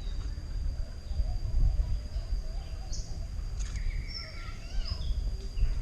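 Birds chirping a few times around the middle, over a steady thin high tone and a low rumble of outdoor noise.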